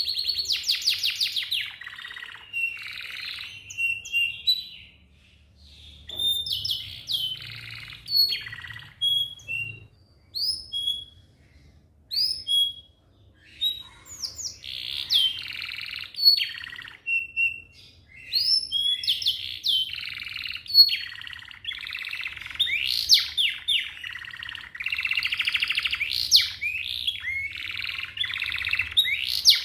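Domestic canary singing a long song of rapid rolling trills and quick rising whistled notes, with brief pauses between phrases.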